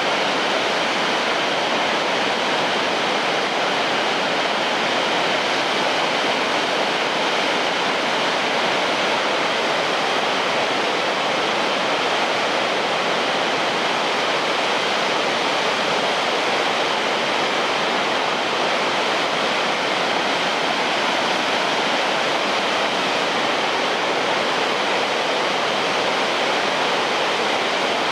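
Shirahige Falls, a waterfall, rushing steadily: an even, unbroken roar of falling water.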